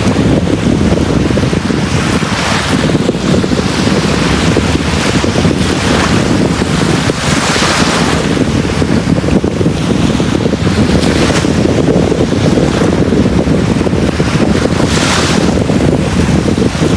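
Sea waves on a beach: a steady low rumble of surf, with the hiss of a wave washing up swelling and fading every few seconds, loudest about seven seconds in and again near the end.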